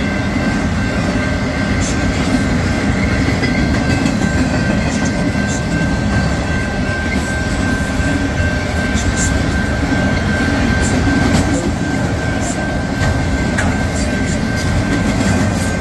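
Freight train of autorack cars rolling steadily past a level crossing: a continuous loud rumble of wheels on rail, with a thin steady high-pitched tone running through it.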